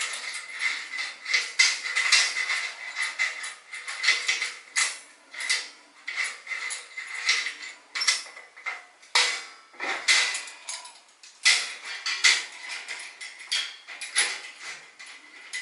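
Irregular clatter of short clinks and knocks, hard objects being handled and set down.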